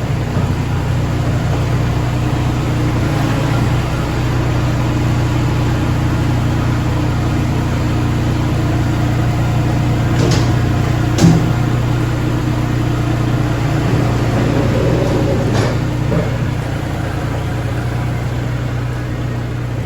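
An engine running steadily at a constant speed, with a few sharp clicks about halfway through and another a few seconds later.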